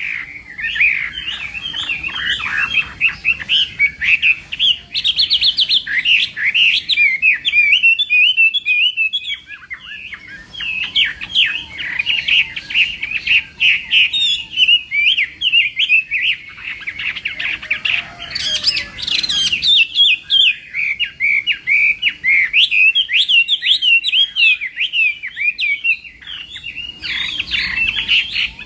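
Chinese hwamei singing a long, fast, varied song of rapid whistled notes, broken by a couple of short pauses.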